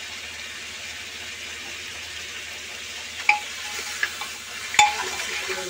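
Goat trotters frying and sizzling in masala in a pressure cooker, with a metal ladle stirring and knocking against the pot's side three or four times from about three seconds in, the loudest knock near the end.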